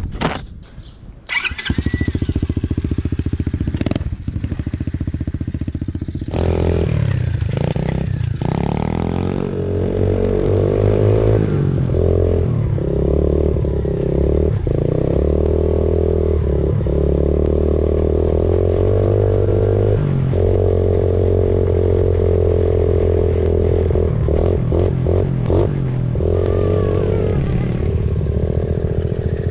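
Small motorbike engine starting about a second in and running steadily, then louder from about six seconds in, with its pitch rising and falling as it is revved and ridden.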